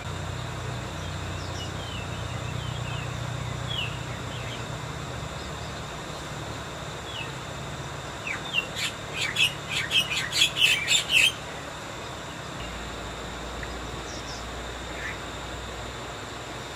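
A bird calling: scattered faint chirps, then about eight seconds in a quick run of about a dozen sharp chirps that grow louder over some three seconds, over a steady low background rumble.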